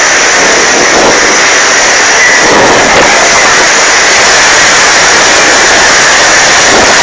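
Typhoon-force wind blowing hard and without let-up, a loud rushing noise that swells slightly every second or two, likely with driving rain and wind on the microphone.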